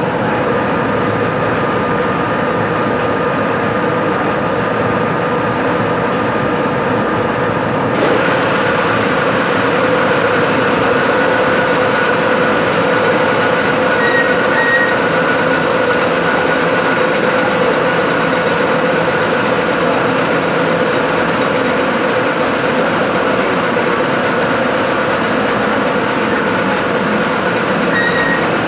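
A metalworking machine tool runs steadily: a loud, dense mechanical noise with a constant hum. The hum shifts slightly about eight seconds in.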